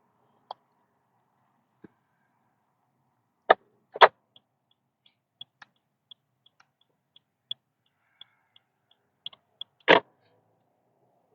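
Scattered raindrops tapping on a car's windshield and roof: irregular small ticks with three louder knocks, the first two about three and a half and four seconds in and the last near the end.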